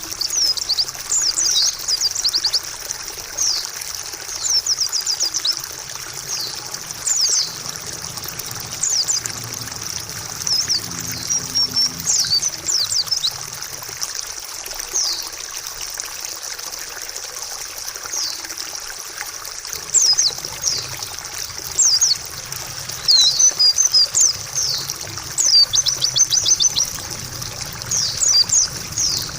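White-eye (pleci) singing in quick, high twittering phrases, over steadily trickling water.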